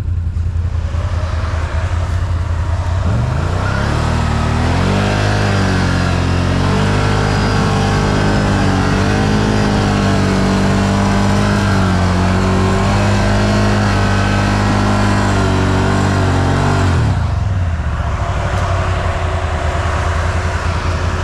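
ATV engine revving hard under heavy load, stuck or struggling in mud. The revs climb about three seconds in, hold high and wavering for roughly thirteen seconds, then fall back to idle.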